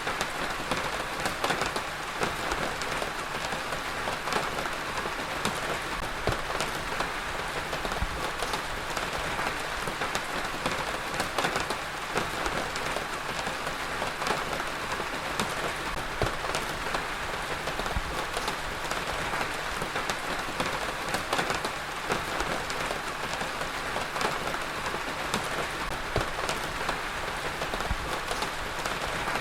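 Heavy rain falling steadily on a surface, a dense even hiss full of fine drop patter.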